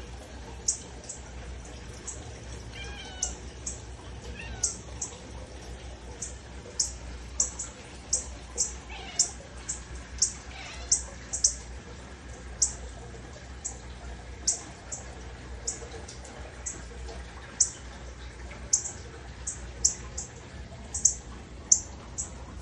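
A northern cardinal giving sharp, high chip calls over and over, about one or two a second. A cat meows faintly a few times, about three seconds in and again around ten seconds.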